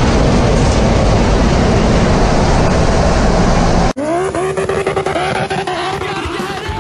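A race car engine at full throttle heard inside the caged cabin: a loud, dense noise with no clear pitch. About four seconds in it cuts abruptly to the 2.5-litre five-cylinder engine of an Audi TT RS drag car, revving up and then holding high revs during a burnout.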